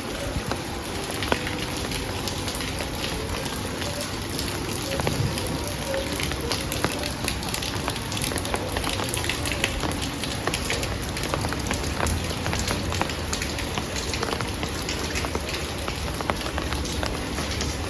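Heavy rain falling steadily, with many individual drops ticking sharply on a nearby surface. A low rumble sits underneath, stronger in the second half.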